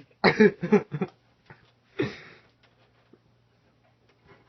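A man's short vocal outburst with a wavering pitch, then a sharp noisy breath about two seconds in, followed by faint scattered clicks.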